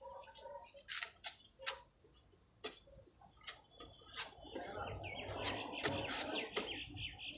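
Small birds chirping, mixed with irregular sharp clicks and a scratchy rasp about halfway through.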